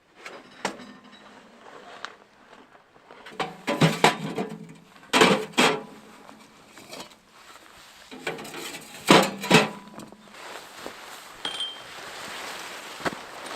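Metal camp cookware and utensils clinking and knocking in a few short clusters, the loudest about four, five and nine seconds in.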